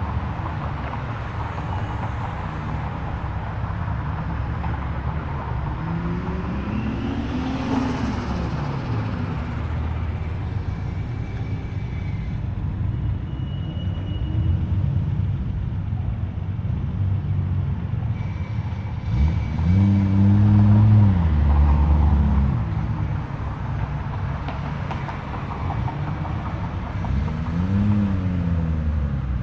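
Car engines running low and steady as cars roll in, with three throttle revs that climb and fall back, the loudest about two-thirds of the way through.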